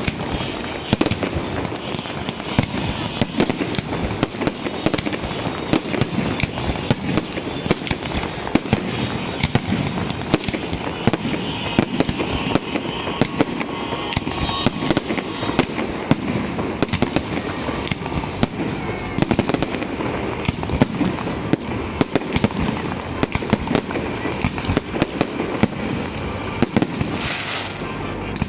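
Aerial fireworks display: shells bursting overhead in a continuous barrage of bangs, several a second.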